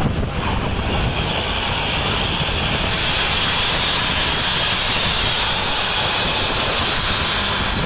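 Steady roar of heavy road traffic on a highway: engine rumble and tyre and wind rush from trucks running close by, with a hissing rush that swells for a few seconds in the middle.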